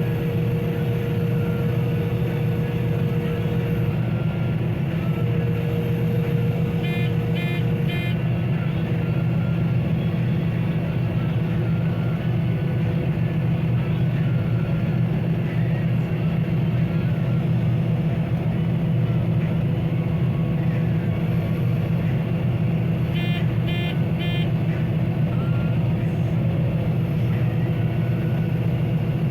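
John Deere 9750 STS combine running steadily while harvesting wheat, a constant low machine drone. Two short runs of rapid electronic beeps sound, about seven seconds in and again about 23 seconds in.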